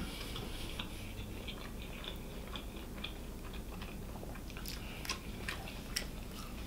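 Close-miked chewing of a mouthful of Wendy's triple bacon cheeseburger: soft wet mouth sounds and small smacking clicks, with a few sharper clicks near the end.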